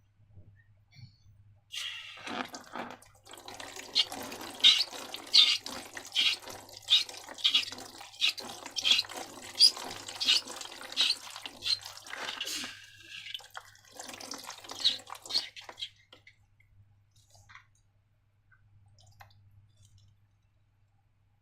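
Slime squelching wetly with sticky clicks and small pops, about one or two a second, as it is squeezed and worked; the sounds die away about three-quarters of the way through.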